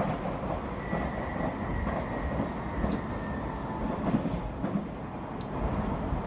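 Train running on the rails: a steady rumble with light clicks, and a faint high whine for a couple of seconds about a second in.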